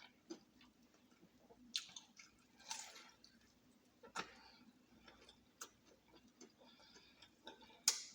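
Fried chicken being eaten: irregular crunching bites and mouth clicks, with a longer crunch about three seconds in and a sharp click near the end.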